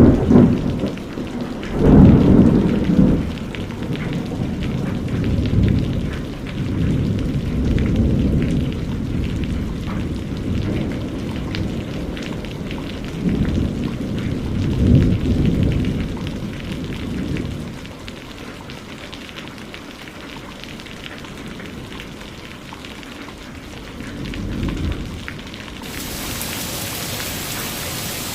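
Steady rain with several long, low rolls of thunder swelling and fading. Near the end the rain turns to a brighter, fuller hiss.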